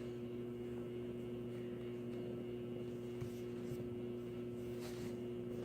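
Steady low room hum with a few faint soft rustles, about three to five seconds in.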